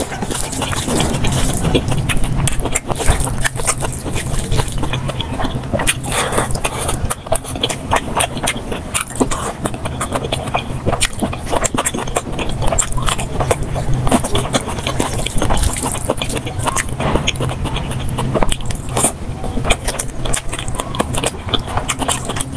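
Close-miked eating sounds played at double speed: rapid chewing and mouth smacking of curry and rice, a dense, unbroken stream of wet clicks.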